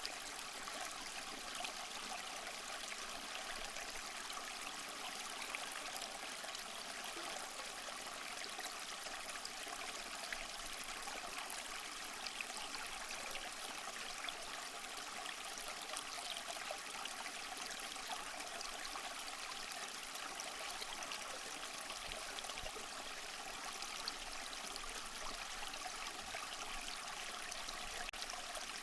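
Small mossy waterfall, a steady splashing and trickling of falling water, even in level with light splashes flecking through.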